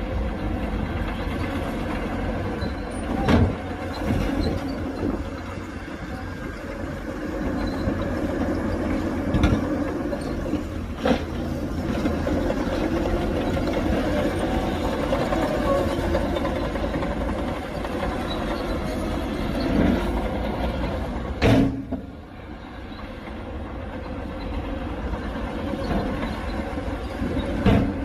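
Heavy diesel earthmoving machinery running steadily, with several sharp knocks scattered through it. The loudest knock comes about three quarters of the way through, after which the engine noise briefly drops.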